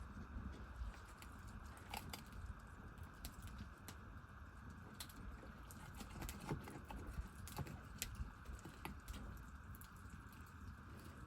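Wood cooking fire crackling under a cast-iron pan: faint, irregular small pops and clicks over a steady faint hiss.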